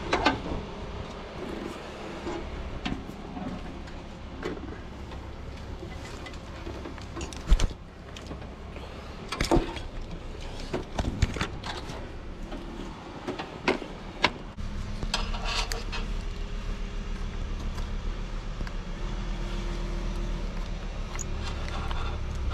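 Scattered knocks and clatter, then about fourteen seconds in a vehicle engine starts and runs steadily.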